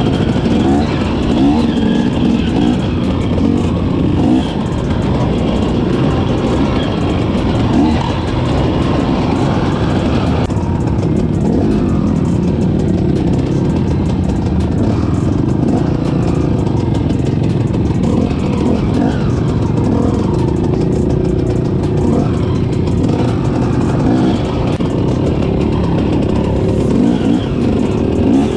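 Off-road vehicle engine running continuously on a trail ride, its pitch rising and falling with the throttle. About ten seconds in the higher part of the sound drops away suddenly.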